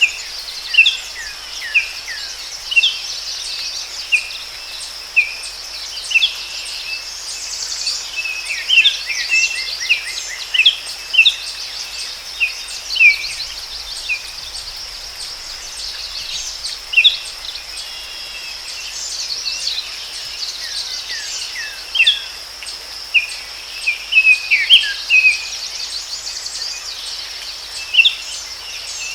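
Forest ambience: many short, sharp bird chirps, some in quick runs, over a steady high-pitched insect drone.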